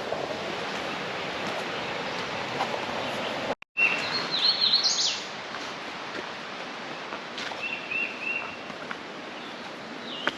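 Wild birds calling outdoors over a steady hiss of outdoor background noise: after a brief cut about a third of the way in, a loud high warbling call, then three short chirps in a row a few seconds later.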